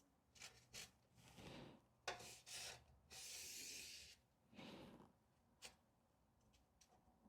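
Faint handwork noises: rubbing and light clicks, with a hiss lasting about a second roughly three seconds in.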